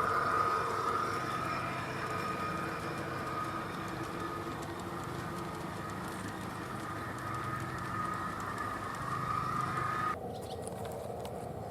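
G-scale model train running on the garden layout: a steady motor-and-gear whine over a low rumble, which cuts off abruptly near the end.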